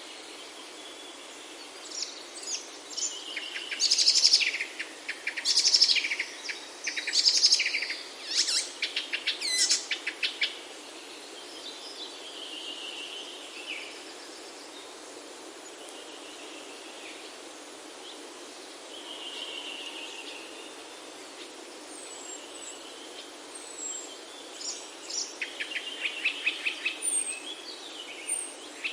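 Songbirds singing: loud bursts of song with rapid trills in the first third, softer scattered chirps through the middle, and another trilling run near the end, over a steady background hiss of outdoor ambience.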